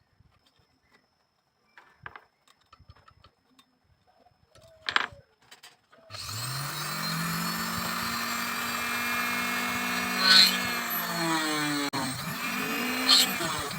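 Small hand clicks and taps, then an electric power tool switched on about six seconds in: its motor spins up and runs steadily, and near the end its pitch dips and recovers a few times as it is loaded against the work.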